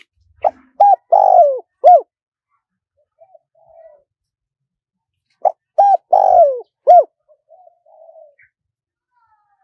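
Spotted dove cooing: two phrases of four coos about five seconds apart, the third coo in each longer and falling in pitch, with a few soft low notes between the phrases.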